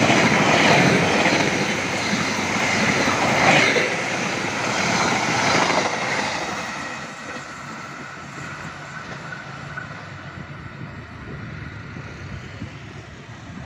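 Passenger train coaches rolling past close by, wheels clattering over the rail joints; the sound falls away about six seconds in as the last coaches go by, leaving a much quieter steady rumble.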